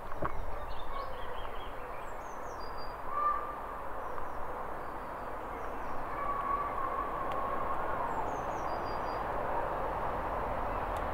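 Small birds chirping in short, high, falling runs a few times, with a faint held whistle, over a steady rushing background.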